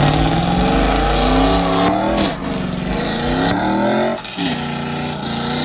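Truck doing a burnout: the engine revs hard while the spinning tyres squeal. The revs climb and fall, dip sharply about two seconds in and again about four seconds in, and the sound cuts off near the end.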